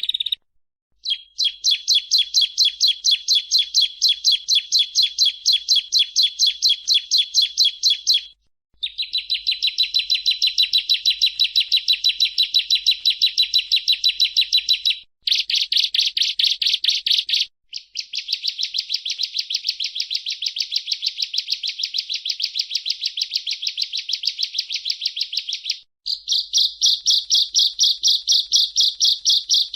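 Bar-winged prinia (ciblek) singing: long runs of rapid, high, evenly repeated chirps, several notes a second, in phrases a few seconds long broken by brief silent gaps.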